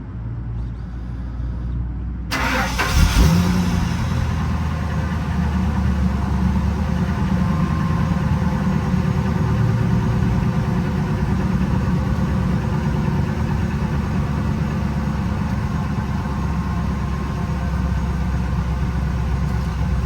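Ford Excursion's 5.4-litre V8 cranking, catching about two seconds in with a brief rev, then running steadily. It starts now that the fuel pump behind the crank-no-start has been replaced.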